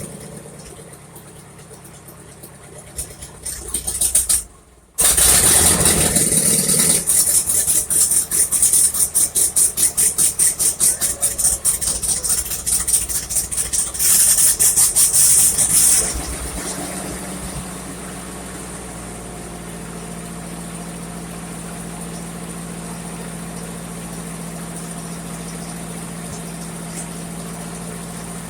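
1958 Ford 851 tractor engine starting. It runs loud with rapid, even firing pulses for about ten seconds, then settles into a steady idle about 16 seconds in.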